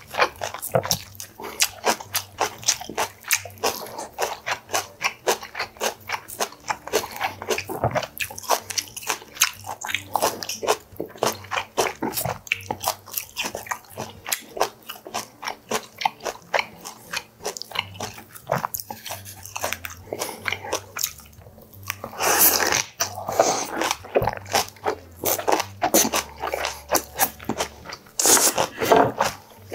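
Close-up chewing of boiled pork belly (bossam) with fresh kimchi: rapid wet smacking and crunching mouth sounds, several a second, with two louder stretches in the last third.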